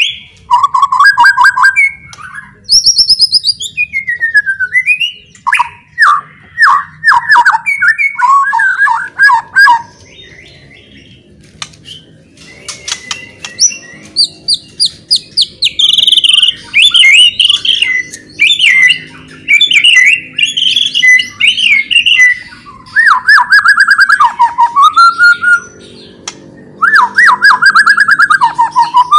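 White-rumped shama (murai batu) singing a loud, varied song: whistled phrases that glide up and down, runs of quick repeated notes and rapid high chattering, in bursts separated by short pauses.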